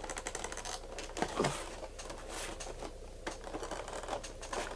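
A Funko Pop figure's cardboard box being handled and opened: light rustling with many small clicks and taps.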